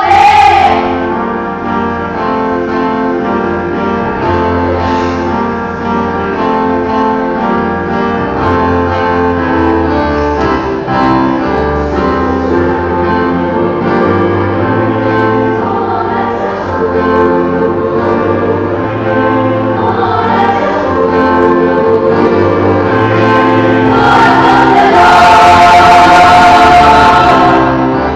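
School choir singing in parts, growing louder and fuller near the end.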